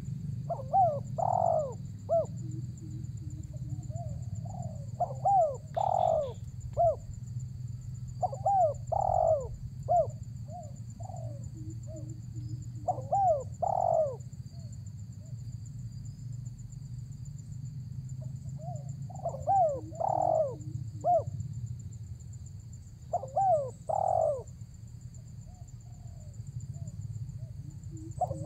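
Spotted dove (tekukur) cooing: about seven phrases of short rising-and-falling coos, a few seconds apart, with a pause of several seconds after the middle one. A steady low rumble runs underneath.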